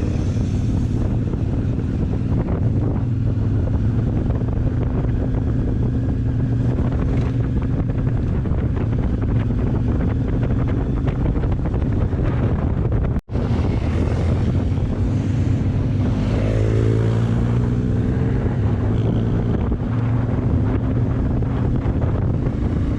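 Motorcycle engine running under way, with wind buffeting the microphone. The engine revs up in a rising sweep about three-quarters of the way through.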